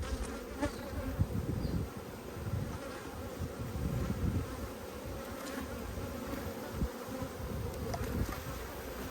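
Honeybees buzzing steadily in a dense hum around an open, strong Langstroth hive during an inspection.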